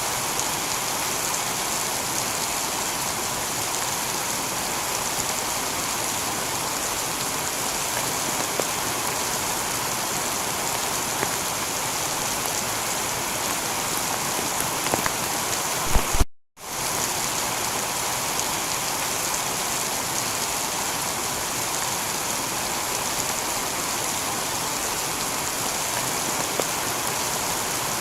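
Steady heavy rain falling on a tiled roof, an even hiss of drops. About two-thirds of the way through it cuts out for a split second, then resumes unchanged.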